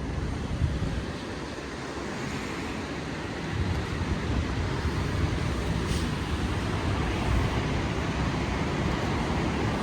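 Steady city traffic noise, a wash of passing cars and buses on the street below, growing louder about three and a half seconds in.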